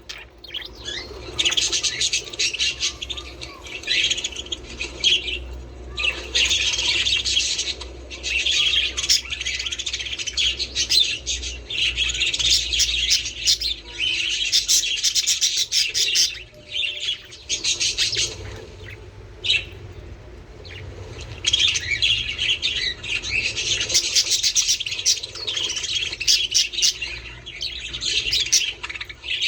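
A flock of budgerigars chattering and warbling: dense, rapid high chirps. It thins to a quieter lull past the middle, then builds up again.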